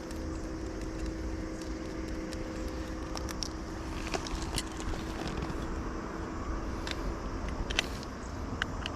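Yamaha WR250 dirt bike's single-cylinder engine running steadily at low revs, with scattered sharp clicks over it.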